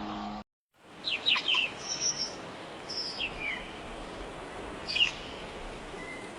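Small birds chirping over a faint steady outdoor hiss, in a few short calls and quick falling tweets spread through, the loudest about five seconds in. A brief low hum at the very start cuts off abruptly into a moment of silence before the birds begin.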